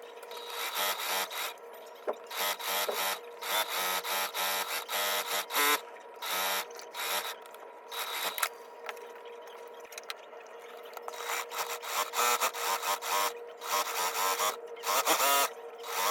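A small machine motor running in short stop-start bursts, a dozen or more, over a faint steady hum.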